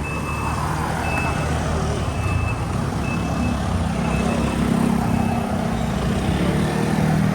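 A vehicle's warning beeper sounds a steady high beep about once a second, fading out after about five seconds. Under it a large vehicle's engine runs in street traffic noise.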